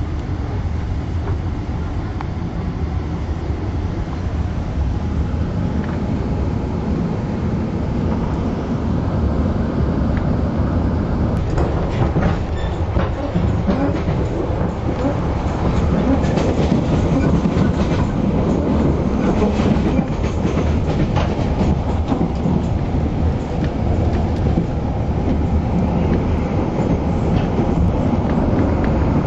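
Overlander passenger train running along the track: a steady rumble of wheels on rail, with clicks of the wheels over rail joints from about a third of the way in.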